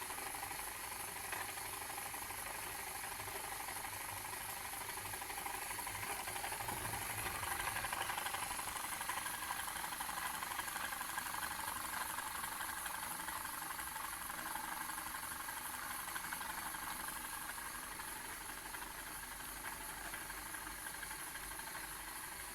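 PM Research Solar Engine #7 glass model engine running steadily under load, driving a model windmill by its drive band, with a faint hiss over the mechanical running.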